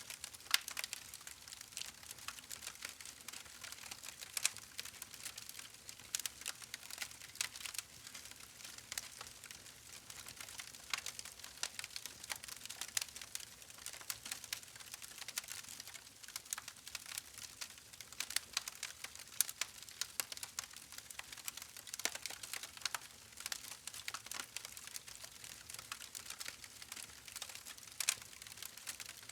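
Wood fire crackling steadily, with many small irregular snaps and pops over a soft hiss.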